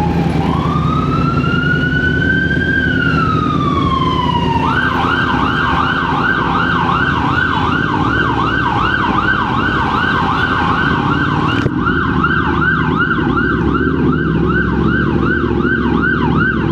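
Electronic siren sounding one slow wail that rises and then falls, then switching about five seconds in to a fast yelp of about two to three sweeps a second. A steady engine and traffic rumble runs beneath it.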